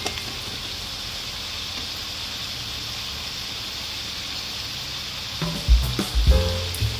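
Stir-fry of okra, bamboo shoots and pork sizzling steadily in a hot wok. About five and a half seconds in, background music with a low beat comes in over the sizzle and becomes the loudest sound.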